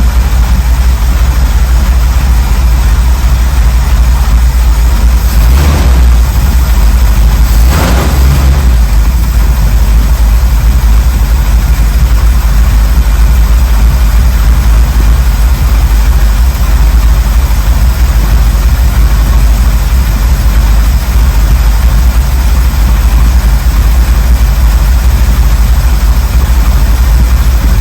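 1979 Ford Bronco's 351M V8 running at a steady idle, with two brief louder bursts about six and eight seconds in.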